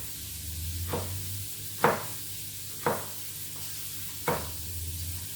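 Food sizzling in a frying pan, with a utensil knocking against the pan four times as it is stirred.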